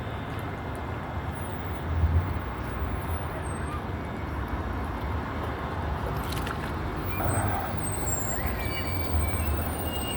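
Steady road traffic at a bus transit center: buses and cars running, with a low engine rumble that swells briefly about two seconds in and again near the end.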